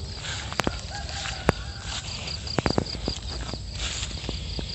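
Insects chirping in the rice paddy in short, even pulses, with scattered sharp clicks and rustles, like footsteps and handling among the rice plants.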